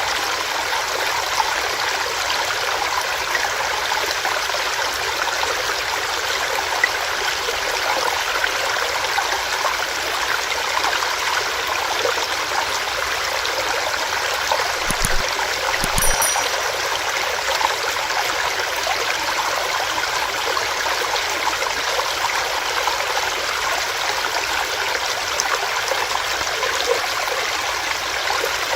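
Small stream running steadily over rocks, a continuous rushing and babbling of water. Two brief low thumps come about halfway through.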